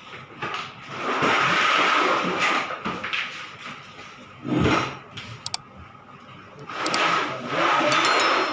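A table dragged across the floor: two long scraping pushes, each about one and a half seconds, with a squeak in them. A dull knock comes between the two pushes.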